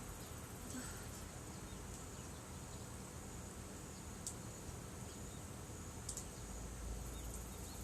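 Steady high-pitched chorus of insects, with two brief sharp clicks about four and six seconds in.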